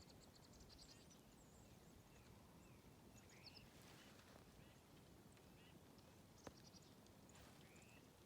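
Near silence with faint, scattered bird chirps and short rising calls, and a single faint click.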